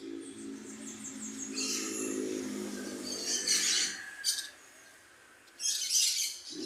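A parrot calling: a series of harsh, high-pitched squawks and chirps in short bursts, about four of them. A low, steady hum runs underneath and stops about four seconds in.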